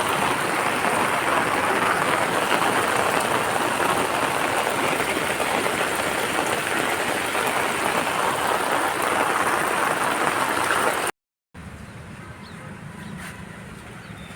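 Heavy rain falling with a steady, dense hiss. About 11 seconds in, the sound cuts out for a moment and comes back much quieter: a softer steady hiss with a faint thin tone over it.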